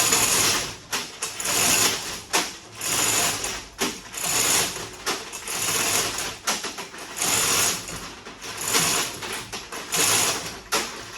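Hoist being worked to lift an engine out of a car, in rhythmic mechanical strokes about every second and a half, each a harsh, noisy stroke.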